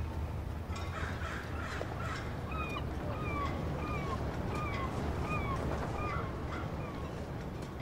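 A bird calling in an even series of about eight short, slurred notes, roughly two a second, over a steady low rumble.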